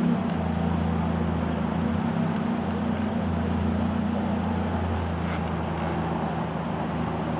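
A motor vehicle's engine running steadily with a low hum, over street traffic noise.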